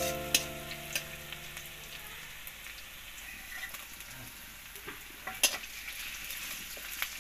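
Sliced onions and chillies sizzling in oil in a metal karai while a metal spatula stirs them. A few sharp clicks of the spatula knocking against the pan.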